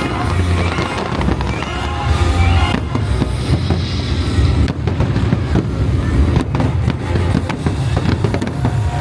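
Fireworks bursting in quick succession, deep booms and sharp cracks, over a loud music soundtrack from the show's speakers.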